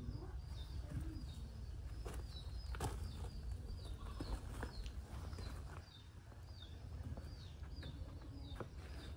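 Outdoor ambience with a small bird chirping over and over, short falling notes about two a second, over a low rumble and a few scattered clicks.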